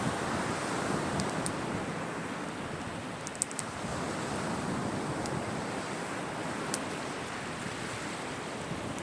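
Sea waves washing onto a shore in a steady rush of surf, with a few sharp pops from a crackling wood fire, a quick cluster of them about three and a half seconds in.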